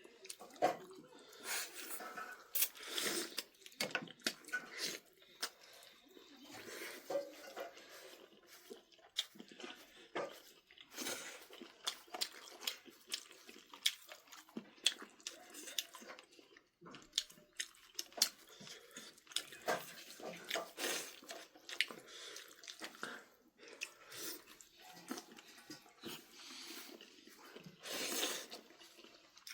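A person eating a meal: chewing, with many small scattered clicks and clatter throughout.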